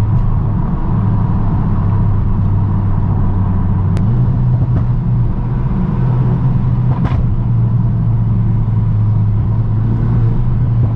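Mercedes-AMG A35's turbocharged 2.0-litre four-cylinder engine running at low speed with a steady low drone, heard inside the cabin, through an exhaust with its rear silencer removed. The drone steps up in pitch about four seconds in as the gearbox drops from third to second, with a sharp click at the same moment.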